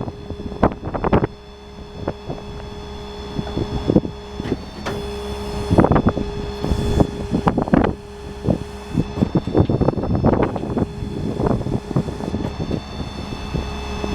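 Ford F550 work truck's 6.7 Power Stroke diesel running with its hydraulic system working, a steady hum with a held whine, broken by irregular knocks and clunks.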